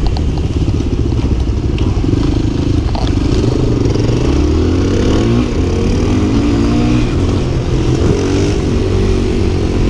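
Dirt bike engine running and being revved, its pitch rising and falling several times from about two seconds in.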